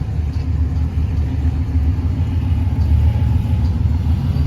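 A vehicle engine running with a steady, deep, low rumble.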